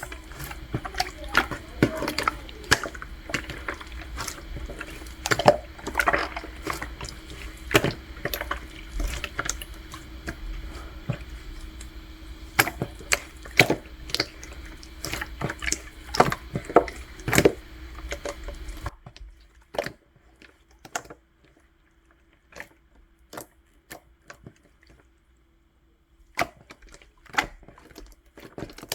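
Hands kneading and poking Elmer's glue slime, making a run of wet clicks and pops. The pops thin out and grow quieter a little past the middle, then pick up again near the end.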